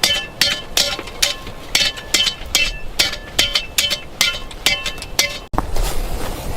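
Hammer striking stone in a steady run of sharp, ringing blows, about two to three a second. The blows stop abruptly about five and a half seconds in, giving way to steady wind noise.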